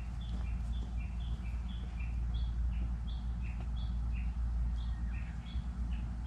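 A small songbird singing short chirps that alternate between a higher and a lower note, a few each second, over a steady low rumble.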